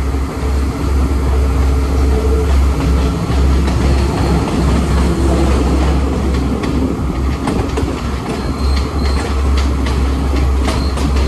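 Passenger train running on the rails, heard from inside the carriage: a steady heavy rumble. In the second half the wheels click over rail joints in a run of clicks, and a faint high wheel squeal comes and goes.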